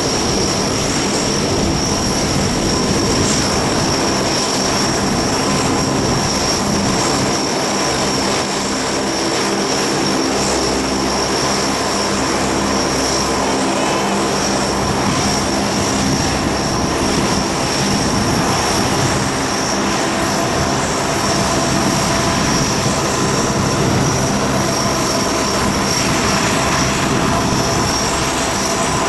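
Lockheed P-3C Orion's four Allison T56 turboprop engines running steadily and loudly, with a constant high-pitched whine over the propeller roar.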